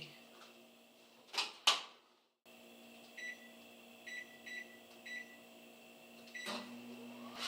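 Microwave oven being set going: two sharp clunks, then five short keypad beeps as the cooking time is entered, and the oven starts running with a steady hum near the end.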